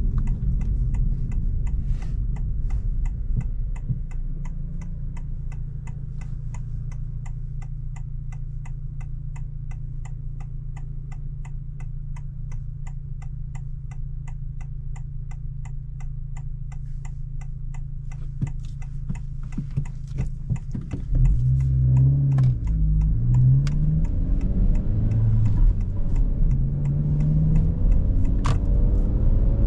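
2025 Honda Civic Si's 1.5-litre turbocharged four-cylinder idling with a steady, even ticking like a turn signal, as at a stop. About 21 seconds in the ticking stops and the engine gets louder as the car pulls away, its pitch rising near the end as it accelerates.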